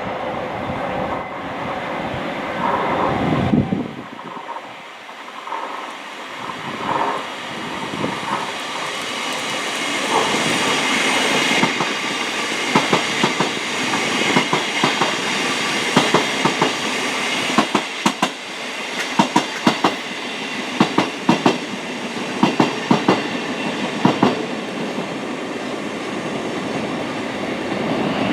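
A train passing at speed with steady rolling noise. From about halfway through, its wheels clatter over the rail joints in a rhythmic clickety-clack of paired clicks, which eases off near the end.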